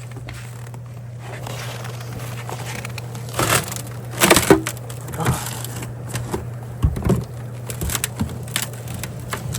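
Footsteps crunching in wet snow with scattered knocks, over a steady low hum.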